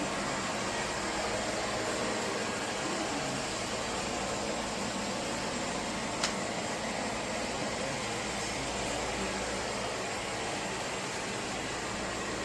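Airzeen R7 robot vacuum cleaner running steadily, with one sharp click about six seconds in.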